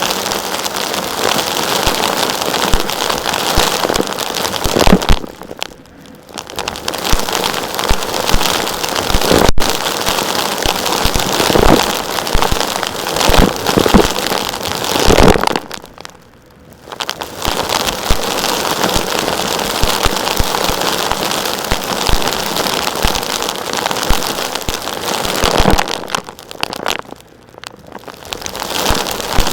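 Dense gritty crackling and crunching of crumbly, rocky material being worked, full of sharp little cracks. It comes in long stretches broken by three short pauses.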